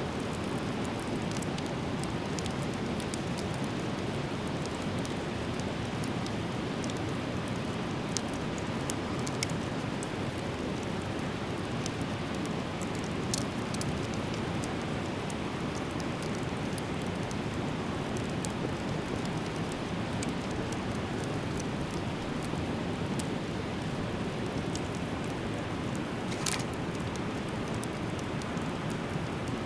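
Driftwood fire burning steadily with a constant rushing hiss and scattered crackles. A few sharp pops sound through it, the loudest near the end.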